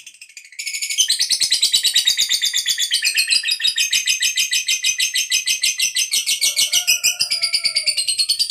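Lovebird 'ngekek': a long, rapid, rattling high-pitched chatter of many notes a second, kept up without a break. It starts softly and turns loud within the first second.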